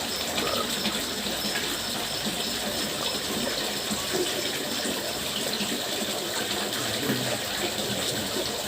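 Water fountain splashing in a steady, even rush.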